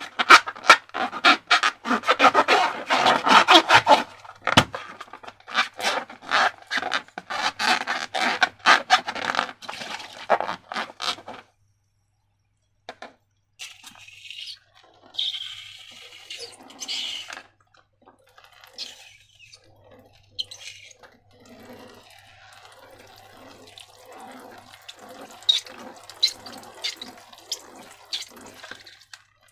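Wet slime squelching and sloshing as it is worked by hand, dense and fast for the first dozen seconds, then a short silence, then quieter, slower, more regular squishes.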